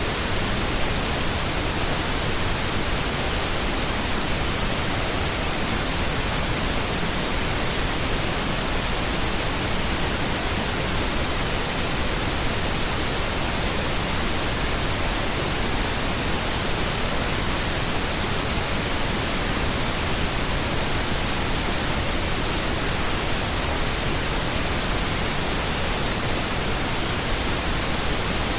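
Steady synthetic pink noise: an even, unbroken hiss that is fuller in the low end, like a distant ocean.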